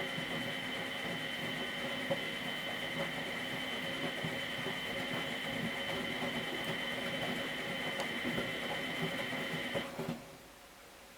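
Miele Professional WS 5426 washing machine turning its drum during a 95°C boil wash: a steady motor whine over an irregular clatter of the tumbling load, stopping abruptly about ten seconds in as the drum pauses between turns.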